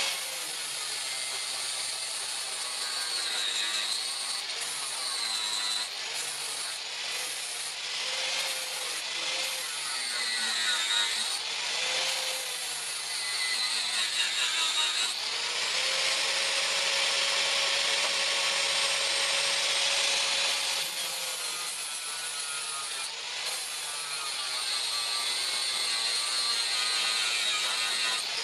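A power tool grinding or cutting steel, its motor tone dipping and recovering again and again as it bites into the work.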